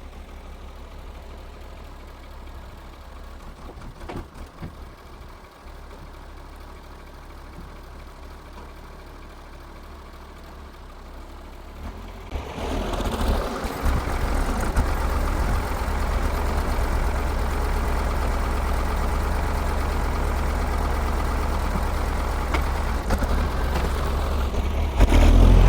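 Band sawmill's engine running steadily, then getting much louder about twelve seconds in and staying loud, with a further rise near the end.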